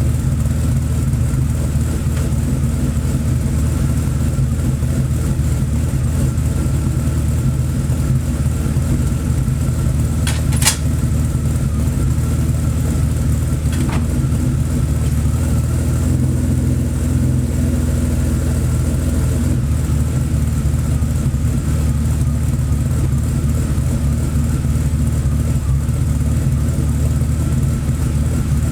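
BMW 850 (E31) V12 engine idling steadily while warming up after a cold start. A single sharp click sounds about ten seconds in, and a fainter one a few seconds later.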